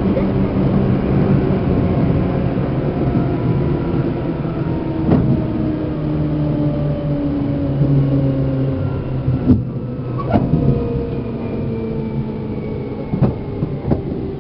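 Seibu New 2000 series electric train's traction motors heard from inside motor car MoHa 2291: several whining tones fall steadily in pitch as the train slows, over the running rumble. Sharp clacks of the wheels over rail joints come about five seconds in and several more times in the second half.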